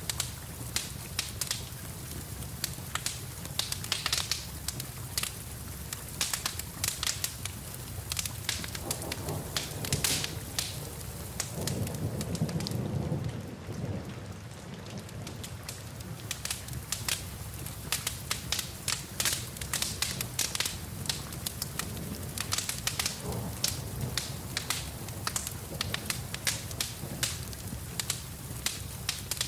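Wood fire crackling with frequent sharp pops over steady rain. A low rumble of thunder swells about twelve seconds in and dies away a few seconds later.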